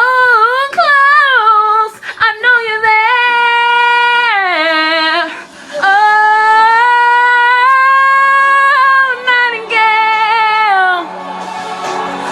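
A female voice singing a ballad without clear words: quick, wavering vocal runs, then one long held note of about five seconds that falls away near the end.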